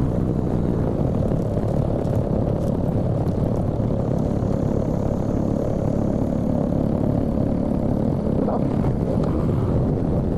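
Steady rush of wind and engine noise from a motorcycle being ridden along the road.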